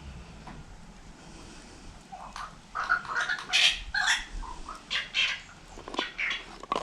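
A bird calling in a quick series of short, irregular chirps, starting about two seconds in.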